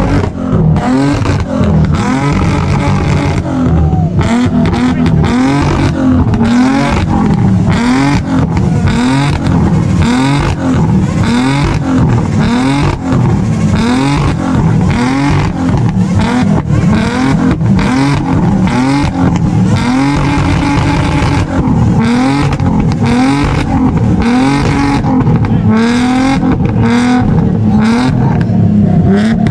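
Car engine revved over and over, its pitch rising and falling in a steady pattern about every second and a half.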